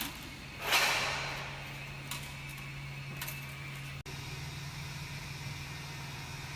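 3D printer handled during PLA filament loading: a short, loud rustling whoosh about a second in, fading over about a second, then two faint clicks over a steady low hum.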